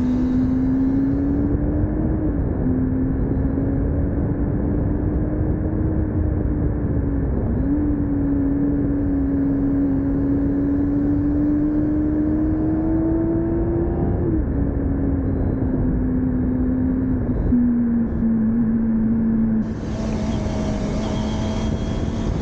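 Motorcycle engine running under way, its note climbing slowly and dropping sharply a few times, over a steady rushing noise.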